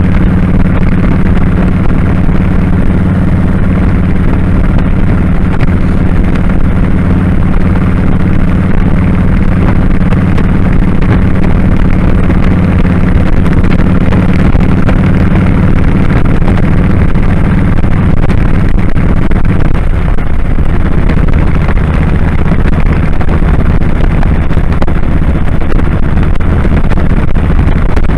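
Kawasaki Drifter 1500's V-twin engine running steadily under way on the road. Its note shifts about two-thirds of the way through.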